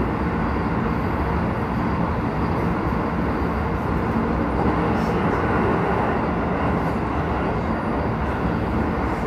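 Keisei 3000 series electric commuter train running steadily along the track, heard from inside the car: a constant rumble of wheels on rails with no clear change in speed.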